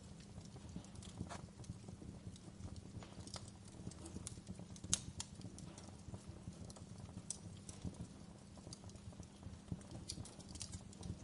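Wood fire crackling in a fireplace, with irregular pops and snaps, the sharpest about five seconds in, over a low steady rumble.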